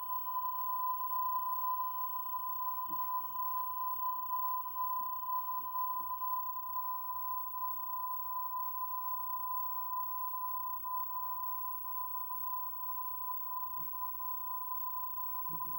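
A steady, slightly high-pitched single tone from the white screen after the feature on a VHS tape, over faint hum and tape hiss. There is a brief low thump near the end.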